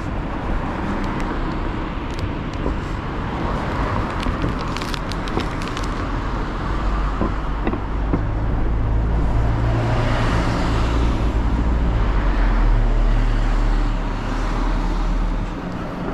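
Street traffic, with a heavy vehicle's engine rumbling close by; the rumble swells midway and eases off near the end.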